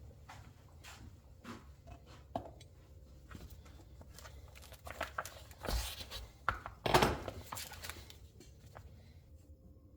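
Light clicks and knocks of shock absorber parts and tools being handled on a workbench, with two louder knocks about six and seven seconds in.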